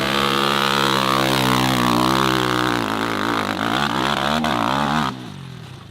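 Dirt bike engine running hard at high revs on a steep hill climb. Its pitch swings up and down about halfway through, then the sound cuts off suddenly near the end.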